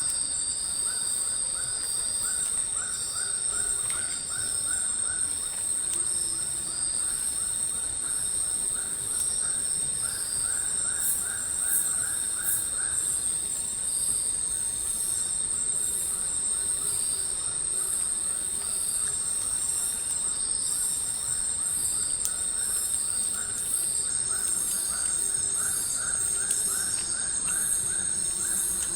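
Tropical forest insects at night: a continuous high-pitched shrill trill with fainter steady insect tones under it, and repeated runs of quick, lower chirps coming and going.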